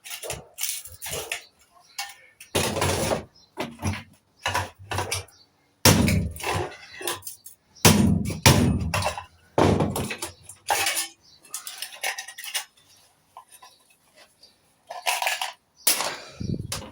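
Irregular clattering and knocking of metal parts as a microwave oven is taken apart by hand, with some short ringing clinks.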